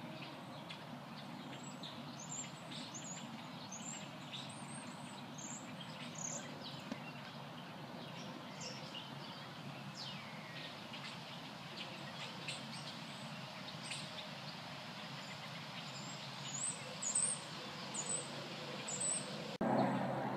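Small birds chirping: short, high, quickly falling calls in runs of several, over a steady outdoor background hum. Just before the end the background noise jumps suddenly louder.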